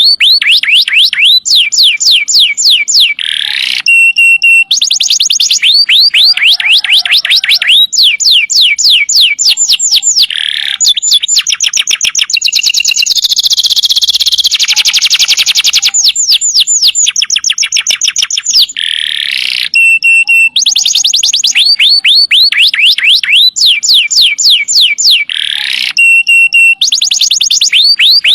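Domestic canary singing in long, loud trills: fast runs of quickly repeated high notes, broken now and then by short steady whistled notes.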